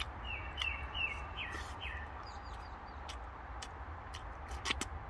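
A small bird chirping: a quick run of about six short, falling chirps in the first two seconds, then a few higher chirps. Light scattered clicks and a steady low rumble run underneath.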